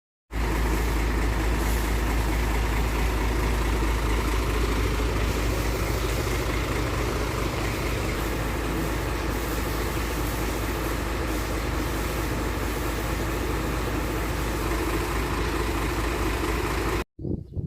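Truck engine running steadily at an even speed. It starts abruptly just after the start and cuts off suddenly near the end.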